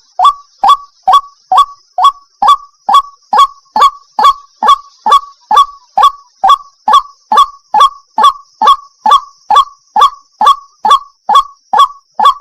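White-breasted waterhen calling over and over, a loud, rapid string of short, downward-sliding notes, about two a second. It is the bird's repetitive 'ruak-ruak' call, which the uploader labels a female calling the male.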